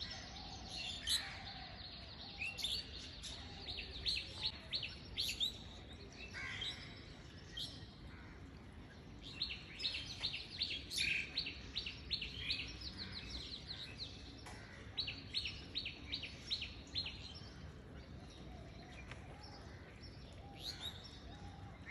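Small birds chirping faintly, short high chirps coming in quick clusters of a second or two at a time, several times over.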